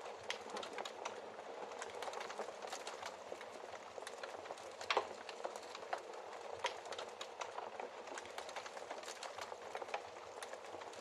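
Wood fire burning in a fireplace, a steady hiss of flames with frequent irregular crackles and pops, the loudest pop about five seconds in.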